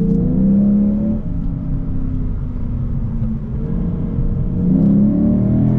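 2023 Lexus IS 500's 5.0-litre naturally aspirated V8 heard from inside the cabin while driving, its pitch rising as the car picks up speed near the start and again about four seconds in. Part of the engine note in the cabin is pumped in through the car's speakers.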